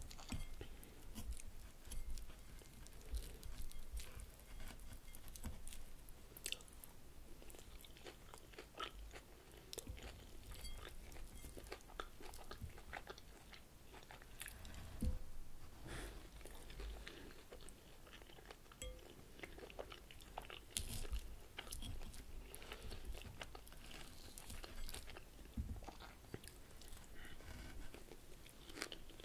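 Close-miked chewing and crunching of a mouthful of crunchy salad with lettuce: a steady run of small wet crackles, with one louder knock about halfway through.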